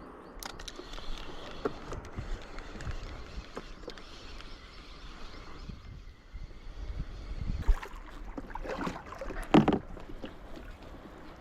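Water sloshing around a small boat, with scattered sharp knocks and a louder cluster of knocks near the end.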